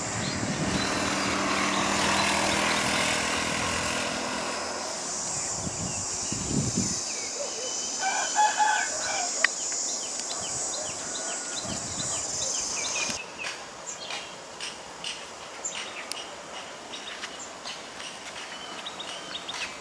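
A diesel passenger train rumbles on the tracks for the first six or seven seconds. About eight seconds in a rooster crows once, over a steady high insect buzz that stops about thirteen seconds in.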